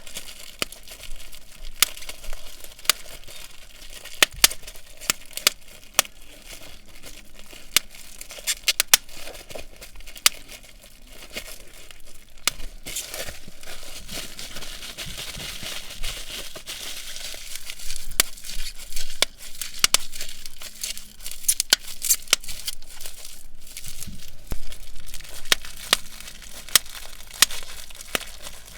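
Bubble wrap being handled and popped: steady plastic crinkling with many sharp, irregular pops throughout.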